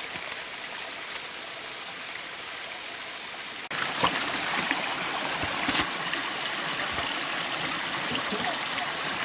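Steady rushing of a stream. It is a little louder after a sudden break about a third of the way in, with a few faint knocks over it.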